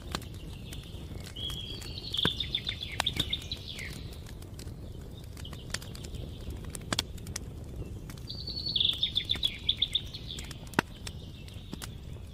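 Campfire crackling with scattered sharp pops over a steady low hiss, while a songbird sings two fast trilled phrases of rapidly repeated notes, one about two seconds in and another about eight seconds in.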